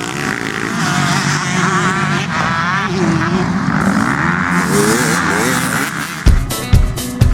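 Dirt bike engines revving, their pitch rising and falling. About six seconds in, music with a steady kick-drum beat starts over them.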